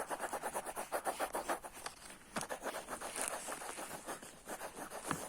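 Pencil colouring in on notebook paper: quick back-and-forth scratchy strokes, several a second, that thin out into slower, scattered strokes after about two seconds.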